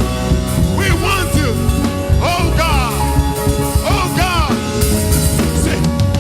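Church band music: drums and bass under a melody line of sliding, bending notes, played loud and steady.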